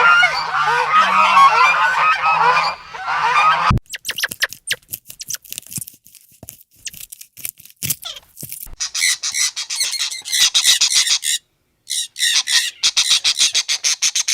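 A flock of birds calling, many short honking calls overlapping. About four seconds in it cuts to scattered clicks, then to a fast run of high-pitched chirping pulses.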